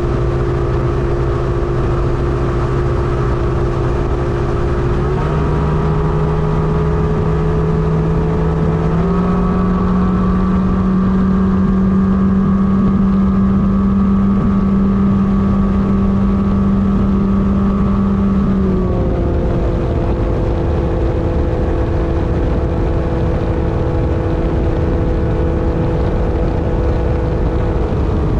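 Mercury 150 Black Max XR4 V6 two-stroke outboard running steadily under way. Its pitch steps up about five seconds in and again about nine seconds in, holds, then drops back about nineteen seconds in.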